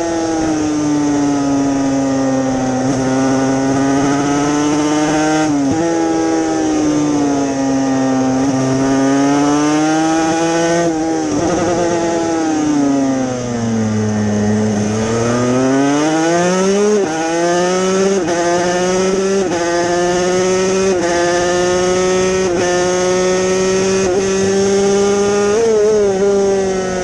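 Yamaha TZ250 two-stroke racing motorcycle engine at race speed, its pitch rising and falling as the rider goes through the gears, braking for a corner about halfway through, then running high and steady.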